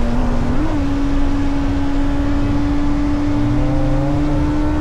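Kawasaki ZX-6R 636's inline-four engine running at steady revs, its note stepping up slightly under a second in and then holding level over a rough low rumble.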